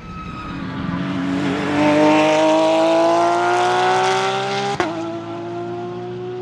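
Porsche 911 GT3 R (992) racing flat-six pulling hard, its pitch climbing steadily for almost five seconds. Then comes a sharp crack from the ignition cut and the pneumatic upshift, and the revs drop into the next gear.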